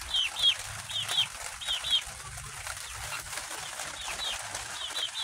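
Young chickens peeping: short, high chirps that fall in pitch, mostly in pairs, repeated about every three-quarters of a second and quieter in the second half.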